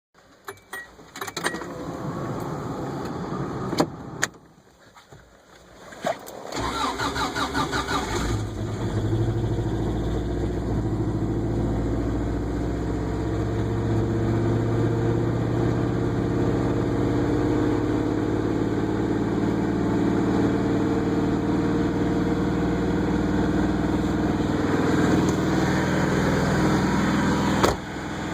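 Cold start of a Subaru Loyale's EA82 flat-four at 10 degrees: after a few clicks, the starter cranks for about two seconds, then the engine catches and settles into a steady idle. The idle runs without the valve tick it used to have.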